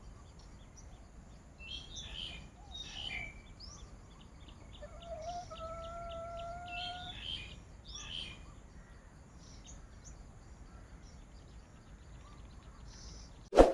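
Wild birds chirping in short bursts over a faint steady background, with one longer, slightly rising whistled note in the middle. Near the end a single sharp, loud clang cuts in.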